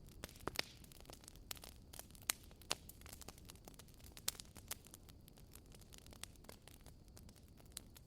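Wood fire crackling in a fireplace: irregular sharp snaps and pops, a handful noticeably louder than the rest, over a faint steady low rumble.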